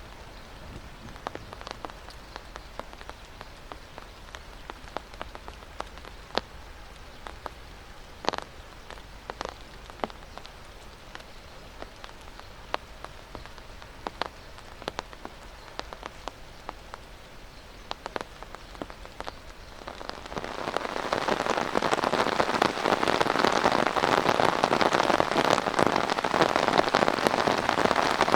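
Thunderstorm rain: big drops at first, landing as scattered sharp taps. About twenty seconds in it turns into a heavy downpour with a dense, steady hiss that is much louder.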